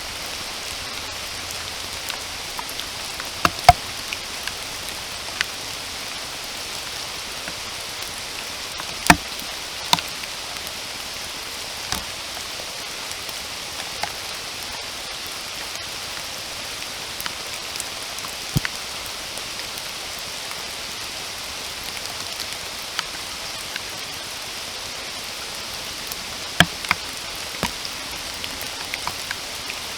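Steady rain falling, an even hiss, with scattered sharper taps of single large drops landing close by, loudest a few times.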